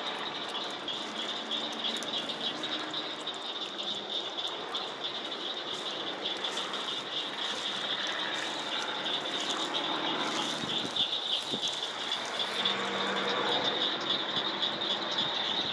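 Dense, high-pitched pulsing chorus of calling wild creatures, unbroken throughout, over a faint low hum.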